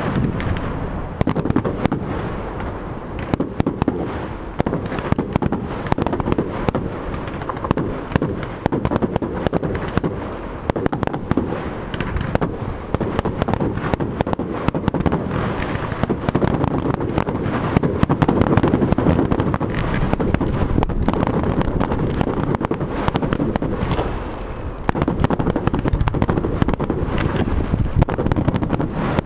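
Fireworks display going off continuously, with a dense barrage of shell bursts and crackling reports that is loudest a little past the middle.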